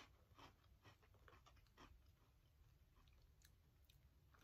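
Faint, irregular crunching and chewing of small, crisp butter-flavoured Tabekko Dobutsu animal biscuits being eaten.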